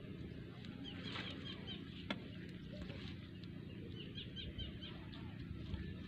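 Open-air ambience: a steady low rumble with a small bird chirping in quick runs of short notes, about a second in and again around four seconds in, and a single sharp click near two seconds in.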